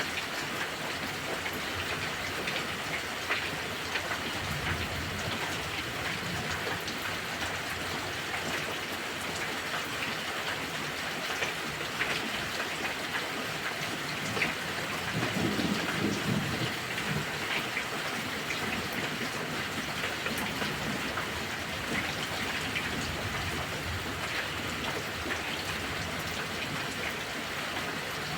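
Heavy rain falling steadily, with many small drop ticks, and a low rumble of distant thunder swelling about halfway through.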